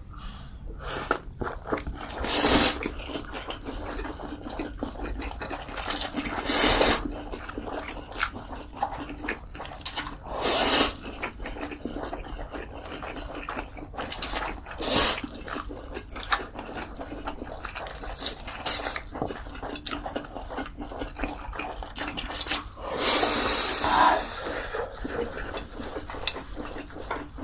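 A person eating close to the microphone: wet chewing and smacking, with a louder slurp every few seconds and a longer one near the end.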